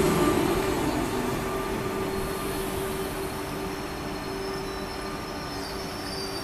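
Double-deck electric commuter train passing close by, its electric locomotive going past at the start, with the rumble and steady motor hum fading as it pulls away. A faint high squeal comes in from about halfway through.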